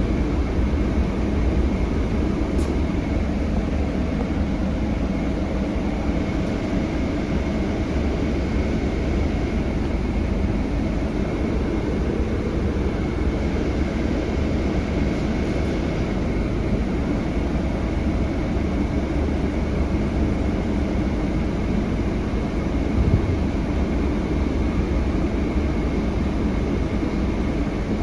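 Steady engine and road noise inside a Scania K320HB bus, from its five-cylinder DC9 diesel, heard from the cabin while riding, with a single short knock about 23 seconds in.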